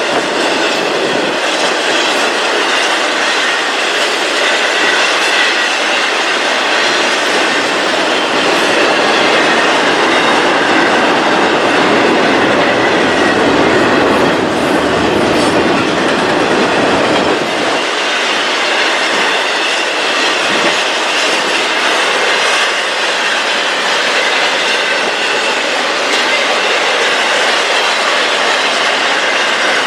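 Railroad cars rolling steadily past close by: a continuous loud rush of steel wheels on rail, with a faint thin squeal running through it.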